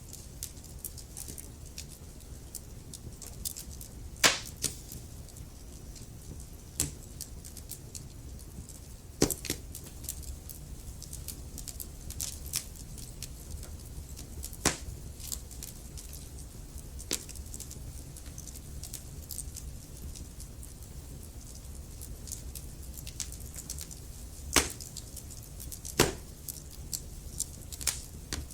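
Wood fire in a fireplace crackling: a steady low rumble of flame with frequent sharp pops and snaps from the burning logs, a few much louder than the rest.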